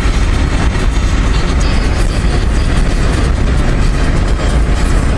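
Car driving along, heard from inside the cabin: steady engine and road rumble, heaviest in the low end.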